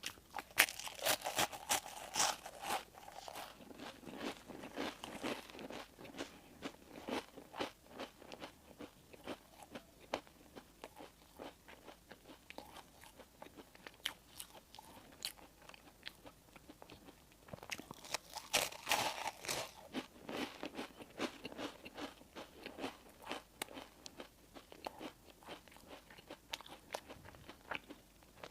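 Close-miked eating: crunchy bites and chewing of crisp baked food such as toasted sesame buns and bread, a dense run of irregular crackles. They come thickest near the start and again about two-thirds of the way through.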